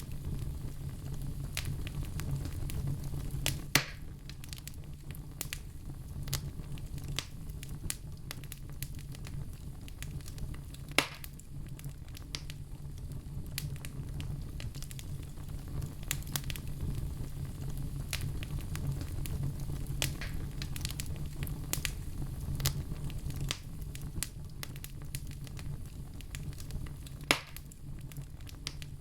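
Wood fire in a stove or fireplace crackling, with irregular sharp pops and a few loud snaps, over a steady low rumble.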